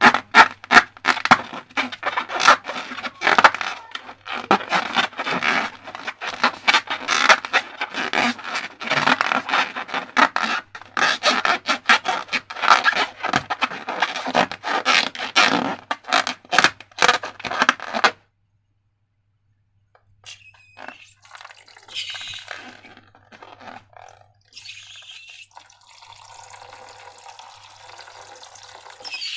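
Sticky slime being mixed, with dense wet crackling and clicking that stops suddenly about 18 seconds in. Near the end comes a steady hiss of liquid being poured.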